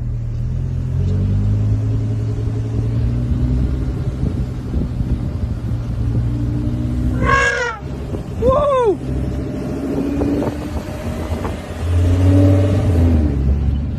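Car engine running with a steady low drone, heard from inside the car. About halfway through come two brief sounds that rise and fall in pitch, and the engine drone grows louder near the end.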